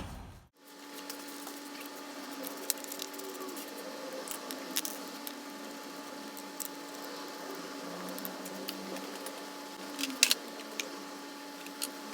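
Scattered light clicks and clinks of hand tools and metal engine parts being handled, over a steady hum, with a sharper pair of clicks about ten seconds in.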